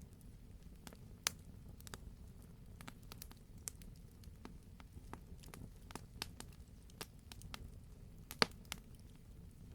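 Wood fire crackling in a fireplace: irregular sharp pops and snaps over a low steady rumble, with one louder pop about eight seconds in.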